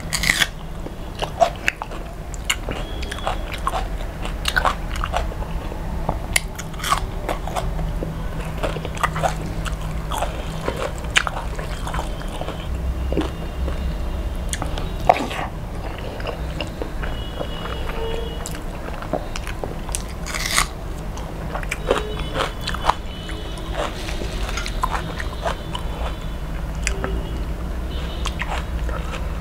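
Close-miked chewing and crunching of hand-fed mouthfuls of rice, with many short, sharp wet mouth clicks and smacks over a steady low hum.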